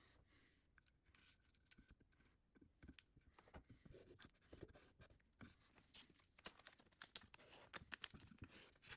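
Faint scratching and small irregular clicks from hand work on a small wooden box.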